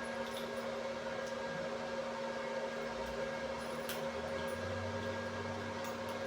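Steady electrical hum of shop machinery with a few faint metallic clicks, and a low rumble joining about four seconds in.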